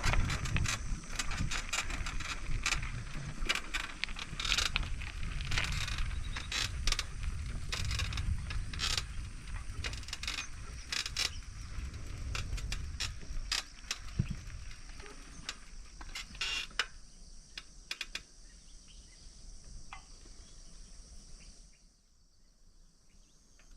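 Bicycle rattling and clicking as it rolls over a rough forest track, over a low rumble of the tyres. The noise thins out about seventeen seconds in and is nearly silent near the end.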